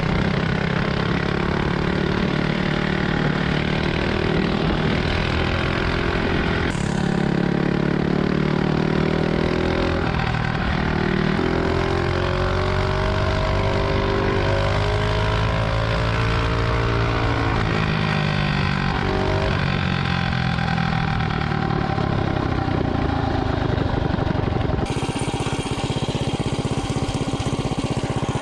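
Predator 212 Ghost single-cylinder four-stroke mini bike engine running under way, its pitch rising and falling as the bike speeds up and slows down. It is being run on freshly added VP 110 race gas to clear the 87 octane from the carburettor bowl.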